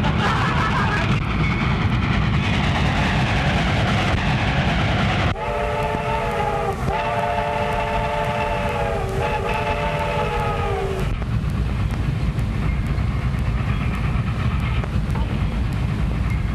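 Train running with a steady rumble, its whistle sounding three times from about five seconds in until about eleven seconds, the middle blast the longest.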